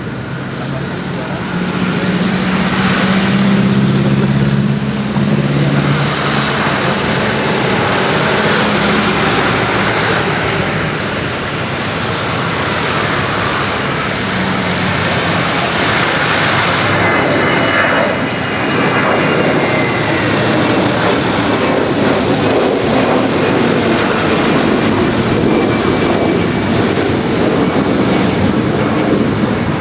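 Large jet airliner's engines running loud with a broad rushing noise. A low steady drone sits under it for about the first ten seconds, and a faint high whine comes in past the middle.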